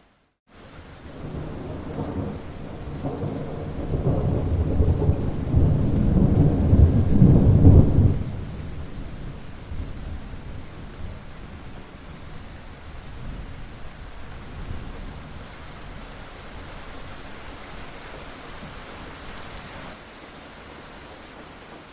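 A long rumble of thunder over steady rain, building over several seconds and cutting off sharply about eight seconds in, after which the rain goes on alone.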